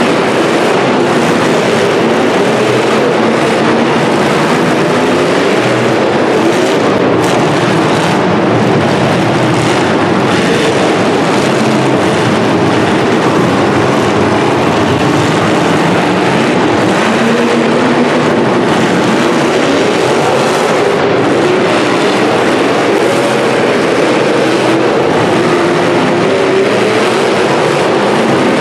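Several demolition derby car engines running and revving at once, their pitches wavering up and down, loud and steady throughout.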